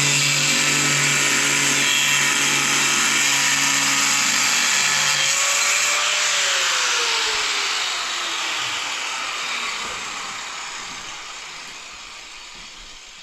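A power tool's motor runs at full speed. About five seconds in it is switched off and winds down, its pitch falling and the noise fading over several seconds.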